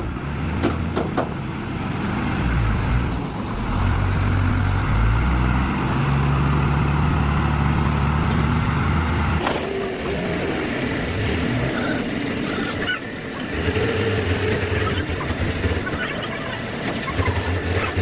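A truck engine running and revving, its low drone stepping up and down in pitch, with a sharp break about halfway through before the engine sound picks up again.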